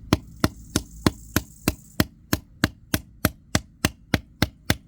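Steady, rapid chopping blows, about three a second, cutting into the plastic handle of a screwdriver to break it away.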